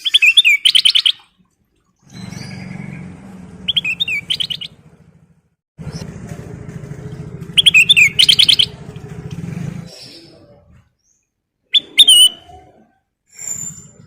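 Kutilang emas bulbul singing in four loud bursts of fast, warbling, trilled phrases. Between about 2 and 10 seconds in, a low, steady, pulsing drone like a passing motor vehicle runs under the song.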